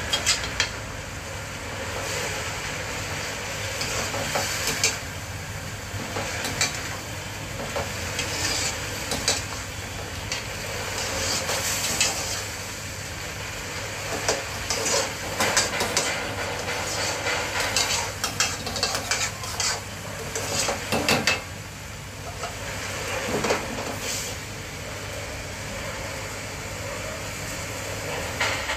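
Shredded cabbage sizzling in a steel pot while a steel spatula stirs it, scraping and clinking against the pot again and again over a steady frying hiss.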